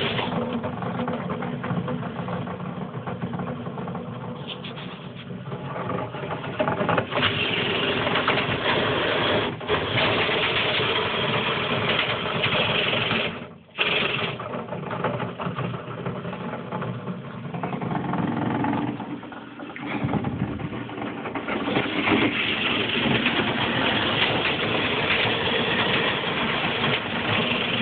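Motor-driven dryer vent cleaning equipment, the brush and lint vacuum, running steadily; the sound swells and dips in level, with a brief cut about halfway through.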